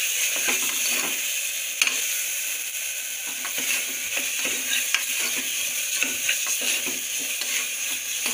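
Onion-coconut masala paste with spices sizzling in hot oil in an aluminium pressure cooker while a metal spoon stirs and scrapes it, with many small clicks of the spoon against the pot. Two sharper knocks of the spoon stand out, about two and five seconds in.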